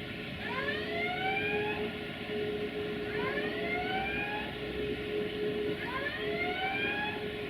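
Electric locomotive hauling a freight train, its traction equipment giving a siren-like whine that rises in pitch in repeated sweeps about every two and a half to three seconds, over a steady hum and running rumble.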